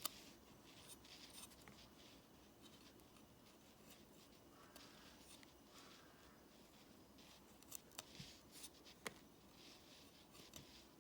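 Near silence: room tone with faint scattered light clicks and rustles, and a few sharper ticks near the end.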